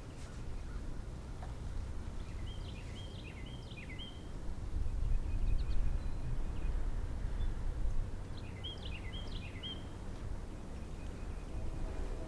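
A songbird sings two short phrases of quick, high chirping notes, a few seconds apart, over a steady low rumble.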